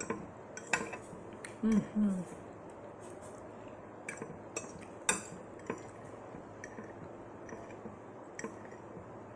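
Someone eating at a table: scattered light clicks and clinks of dishware and mouth sounds. About two seconds in come two short hummed "mm" sounds.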